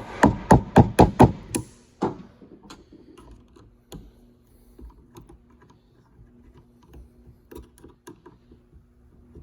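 Hand tools and shifter parts knocking: a quick run of sharp knocks, about four a second, and one more a moment later, then faint scattered clicks and taps of the parts being handled.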